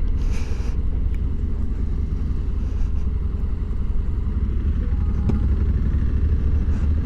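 Honda Africa Twin motorcycle running steadily on the road, a constant low engine and road rumble without change in pace.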